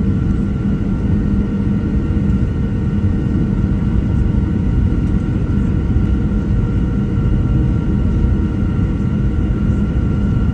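Boeing 737-700's CFM56 turbofan engines heard inside the cabin: a loud, steady rumble with several steady tones over it.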